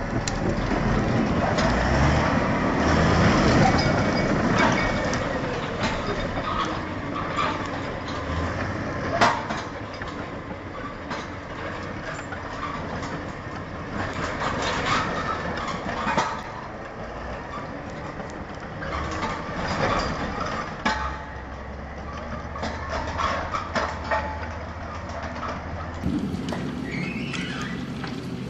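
Heavy vehicle machinery running under load, a continuous mechanical din with several sharp knocks.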